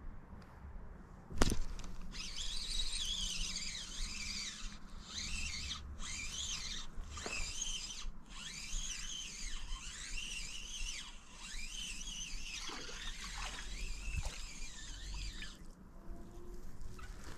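A songbird singing a long, fast warbling song of rapidly rising and falling chirps, which stops abruptly near the end. A single sharp click comes just before the song begins.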